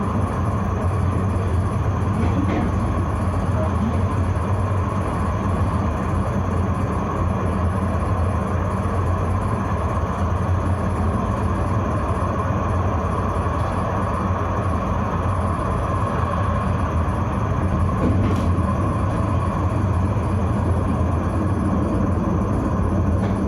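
Tram running along its line: a steady rumble of motors and wheels on rail with a low hum, and a single click about eighteen seconds in.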